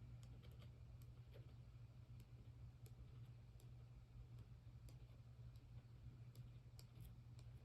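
Near silence: faint, scattered small clicks and ticks from craft materials being handled, over a low steady hum.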